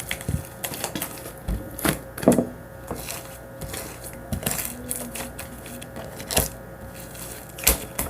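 Slime being handled and squeezed, with irregular sharp clicks and pops.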